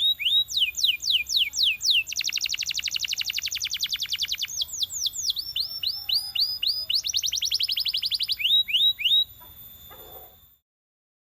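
Belgian canary singing: phrases of repeated down-slurred whistled notes, a few per second, alternating with fast rolling trills of many notes per second. The song stops about nine seconds in, followed by a brief faint noise and then silence.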